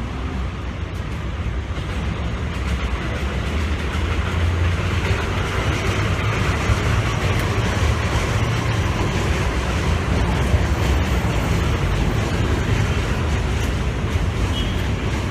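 Steady rumble of passing traffic, a vehicle noise that builds over the first several seconds and slowly eases off toward the end.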